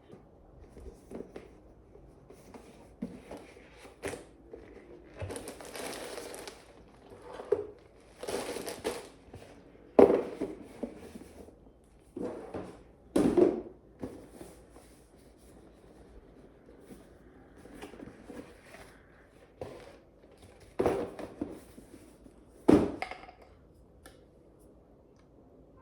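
Irregular household handling sounds: bouts of crinkling and crumpling, with several sharp knocks and thuds in between.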